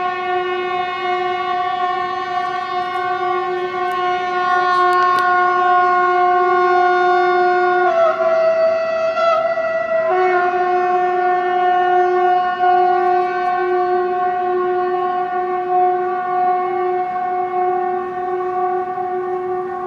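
A loud, unexplained horn-like drone of the kind reported as 'strange sounds in the sky': one steady brassy pitch with many overtones. About eight seconds in it dips lower for roughly two seconds, then returns to its first pitch.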